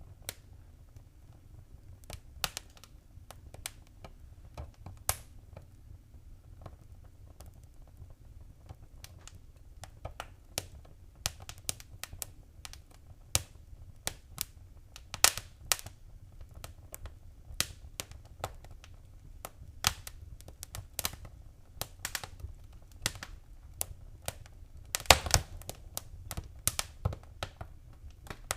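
Wood fire crackling in a fireplace: scattered sharp pops and snaps over a steady low rumble, the pops coming more often after the first ten seconds or so, with a loud cluster of them near the end.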